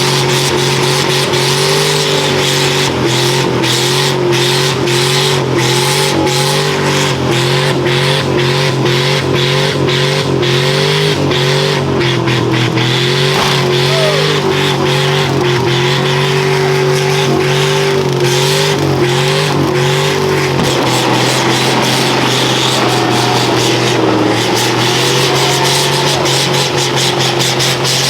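Engine held at high revs, its pitch wobbling up and down in quick repeated blips for about twenty seconds, under a steady loud hiss.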